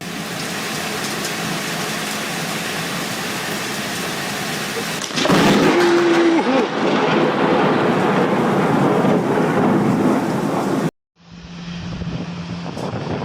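Heavy rain with thunder. About five seconds in a sudden loud thunderclap rumbles on for several seconds. The sound cuts out abruptly for a moment near the end, then the rain comes back.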